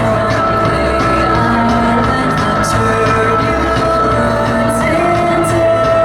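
A rock band playing live and loud: held, drawn-out notes over drums with a few sharp cymbal-like hits, and a singing voice.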